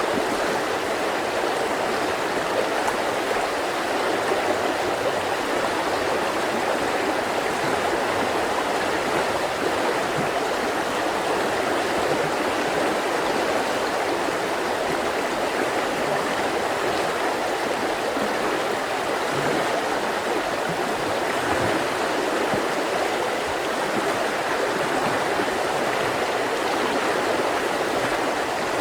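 Mountain river flowing over rocks: a steady rush of water.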